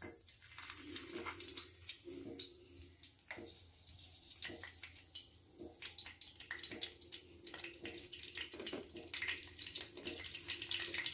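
Semolina-coated fish shallow-frying in hot oil in a pan: a sizzle with scattered crackles and pops, busier near the end.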